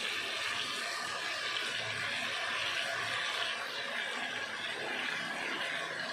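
Steady sizzling hiss of onions, tomatoes and potatoes frying in oil in a pot.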